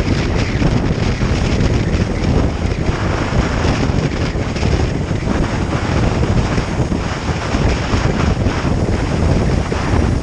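Wind buffeting the microphone of a motorcycle riding at speed, a steady loud rush with no distinct engine note.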